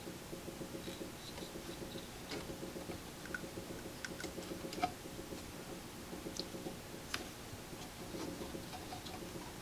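Faint scattered clicks and light scratching from hand work on wires and small parts, over a steady low hum. The sharpest click comes a little before the middle and another about three-quarters of the way through.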